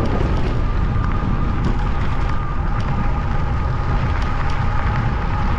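Wind rushing over the microphone and tyre noise from an e-bike being ridden, with a steady high motor whine running through it and a few faint ticks.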